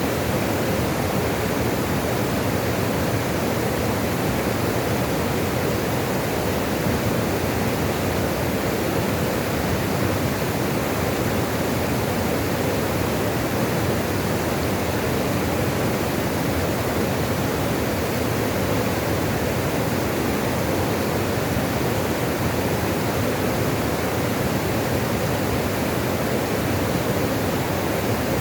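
Water rushing steadily, a continuous even wash with most of its weight in the low and middle range.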